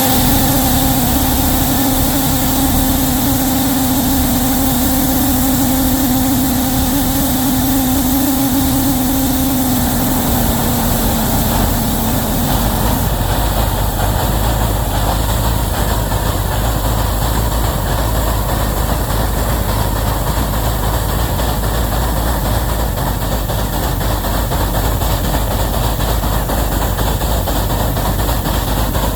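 Wabash locomotive No. 713 working a heavy train: a steady, loud mechanical rumble. A steady held tone sounds over it at first and dips slightly as it fades out about ten seconds in.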